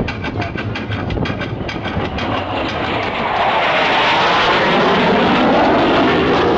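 An airplane at an airshow flying past, its engine noise building to a steady loud roar from about halfway in.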